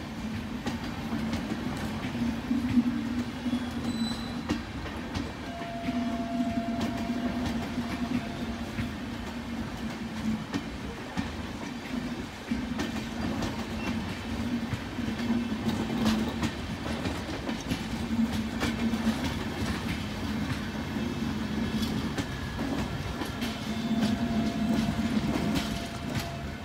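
A train of LHB passenger coaches rolling past on the track. The wheels give a steady rumble with frequent sharp clicks as the bogies cross rail joints, and a faint thin whine comes and goes.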